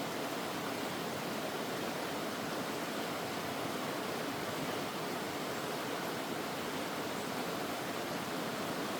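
Mountain stream water rushing steadily, an even unbroken wash of sound.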